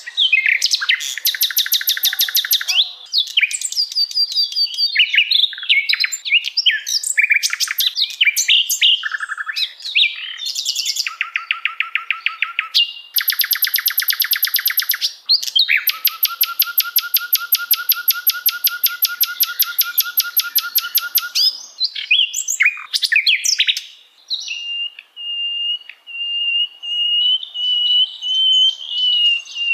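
Songbird calls recorded for 'masteran', the tutor track used to train caged songbirds: a varied run of sharp high chirps and phrases, with two long, fast rattling trills, the second lasting about six seconds. A held, wavering whistle runs from about two-thirds of the way in to the end.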